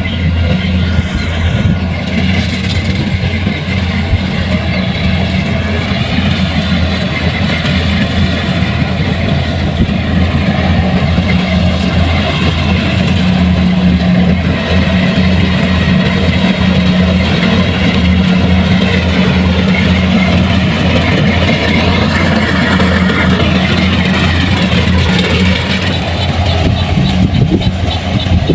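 Kubota rice combine harvester running steadily at a constant engine speed, its diesel engine humming loud and even without a pause.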